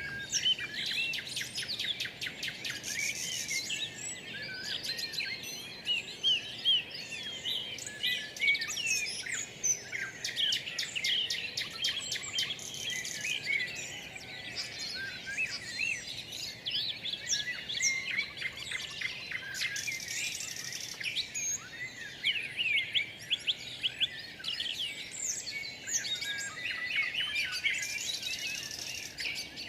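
Birds chirping and singing, many quick high notes and short trills overlapping without pause, over a faint steady background hiss.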